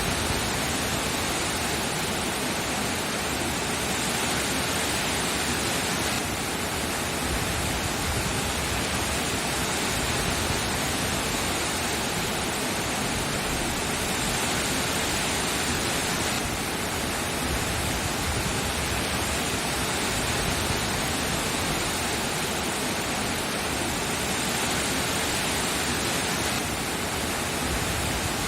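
Steady rain, an even hiss with no separate drops or other sounds standing out, its texture shifting slightly about every ten seconds.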